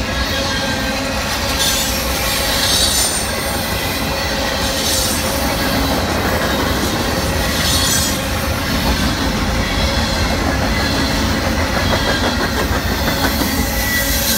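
Freight train cars rolling past at close range: a steady rumble of steel wheels on rail, with brief high-pitched wheel squeals a few times.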